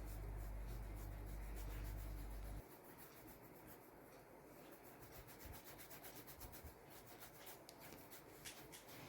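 Faint paintbrush strokes rubbing and scratching across the painting surface, as a parrot is painted. Under them a low hum cuts off suddenly about two and a half seconds in.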